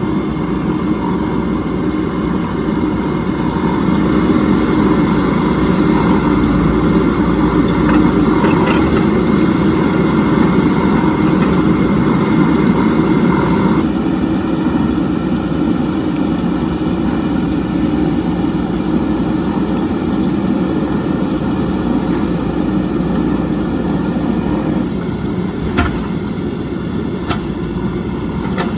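JCB backhoe loader's diesel engine running steadily on the job. It grows louder about four seconds in and eases again about halfway, and two sharp knocks come near the end.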